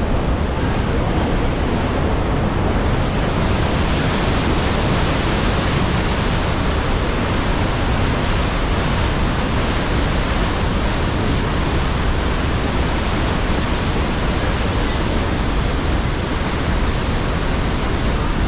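A large waterfall's falling water making a loud, steady rushing noise. The hiss grows brighter about three seconds in.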